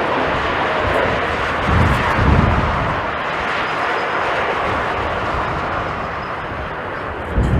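Jet airliner's engines roaring steadily as it passes on approach, with gusts of strong wind buffeting the microphone about two seconds in and again near the end.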